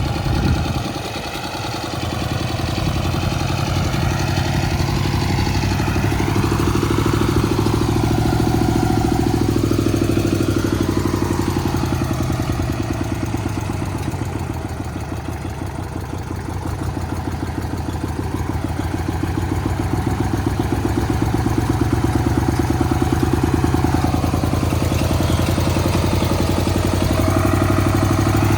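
Diesel engine of a mini cultivator running steadily with a fast, even firing beat, its level easing and rising a few times.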